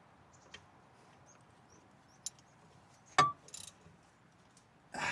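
A few faint scattered clicks and one sharp click about three seconds in, over a quiet background, with a short rustle near the end: small taps and knocks during hands-on work on the car.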